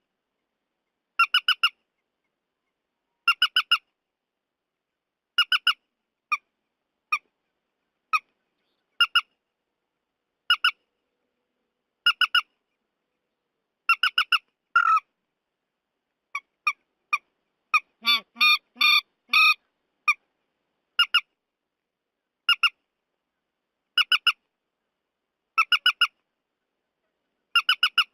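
Recorded calls of the trích ré bird, played as a net-hunting lure. The calls come as short clipped groups of three or four quick notes, repeating every one and a half to two seconds, with a few single notes between groups. A denser, harsher run of calls comes about two thirds of the way through.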